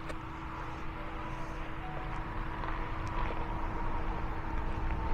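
A steady distant engine drone, growing slowly louder.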